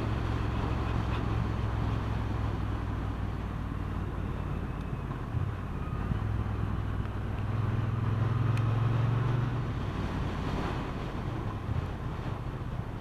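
Motorcycle engine running under way with wind noise on the microphone. The engine note dips briefly about five seconds in, then swells for a couple of seconds around eight to nine seconds in.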